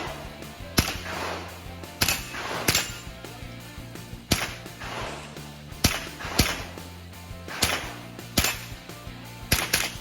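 .22 rimfire rifle firing a stage of about ten shots at uneven intervals, mostly a second or more apart with a quick pair near the end, each crack followed by a short echo.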